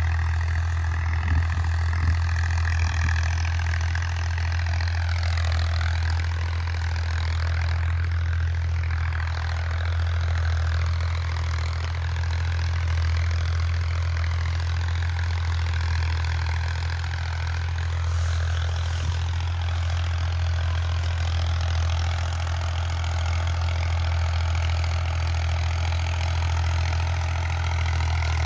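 Ghazi tractor's diesel engine running steadily as it drives a rotavator, a constant low drone with a whine above it that slowly rises and falls.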